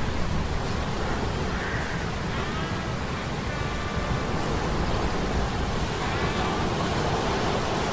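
Ambient soundscape of a steady sea-storm rumble and rain-like hiss, with faint metallic humming tones that glide up and down and drift in and out.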